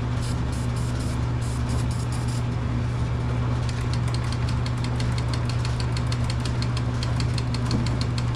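Tecumseh single-cylinder engine on a Craftsman pressure washer running steadily with a low hum. From about three and a half seconds in, a fast run of light ticks sounds over it, several a second.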